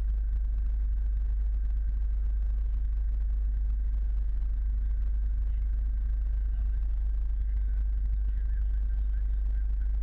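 Scania truck engine running steadily, a deep even rumble with a faint steady whine above it.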